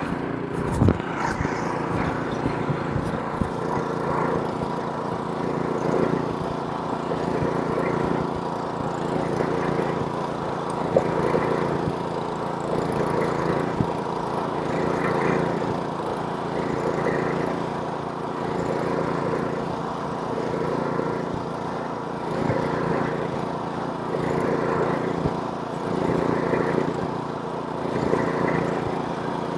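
Small-engine snowblower running steadily while clearing snow, its sound swelling and easing about every two seconds, with a few sharp clicks about a second in.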